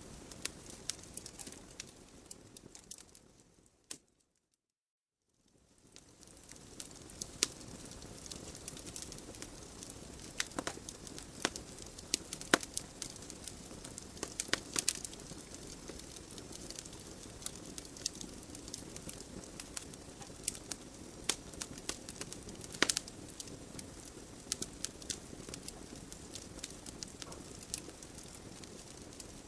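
Wood fire crackling: a steady low hiss dotted with frequent, irregular sharp pops and snaps from burning logs. About three seconds in the sound fades out to a second or so of silence, then fades back in.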